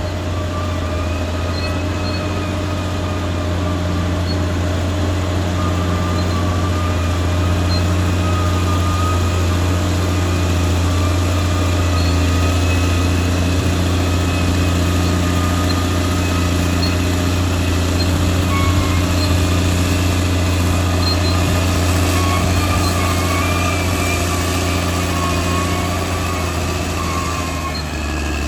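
Caterpillar D6R XL bulldozer's diesel engine running steadily and loudly, with a faint wavering whine above the deep engine note.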